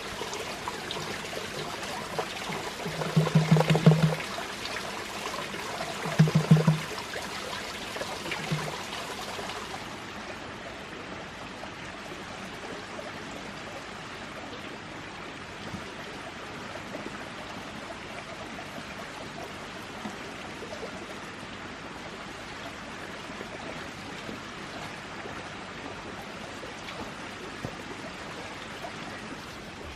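Steady running water like a small stream, with a few short louder sounds in the first nine seconds.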